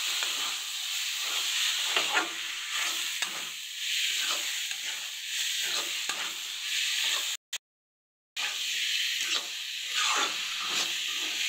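Diced potatoes and green peas frying in oil and masala in a kadhai, with a steady sizzle, while a metal spatula stirs and scrapes the pan in repeated strokes. The sound cuts out completely for about a second, about seven and a half seconds in.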